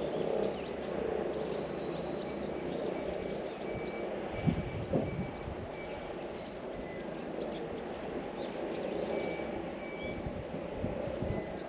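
Outdoor garden ambience: a steady low rumble like distant traffic or a plane overhead, with small birds chirping. A couple of soft thumps come about halfway through.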